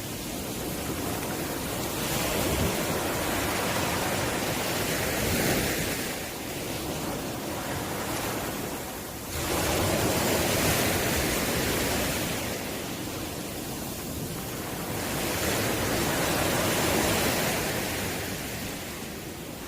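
Sea waves breaking and washing on the shore in slow surges every few seconds; one wave comes in suddenly about halfway through.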